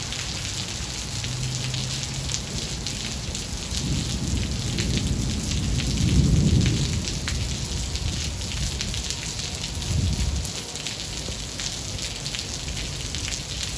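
Steady heavy rain with fine pattering drops. Thunder rumbles in the middle, swelling to its loudest about halfway through, and a shorter low rumble follows about ten seconds in.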